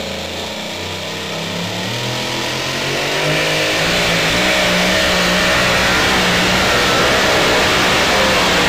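Supercharged engine of a super modified two-wheel-drive pulling truck, running low at first, then revving up about three seconds in and held at high revs, its pitch wavering.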